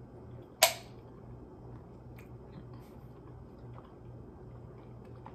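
A person chewing a soft strawberry mochi, mouth sounds close to the microphone. There is one sharp click a little over half a second in, then faint chewing.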